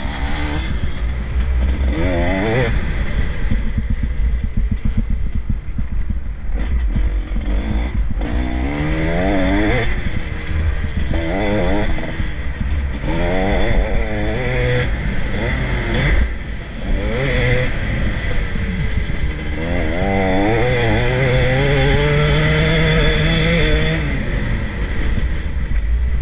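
Motocross bikes racing past, engines revving up and down in repeated rising sweeps as the riders accelerate, shift and back off, several bikes overlapping, with one held at a steadier high rev about two-thirds of the way through.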